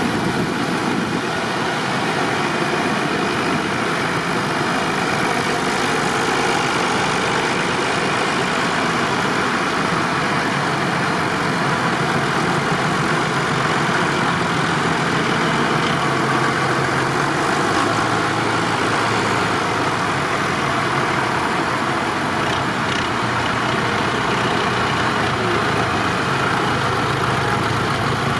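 Tractor engine running steadily, with a constant rush of noise and low engine tones that become clearer about halfway through.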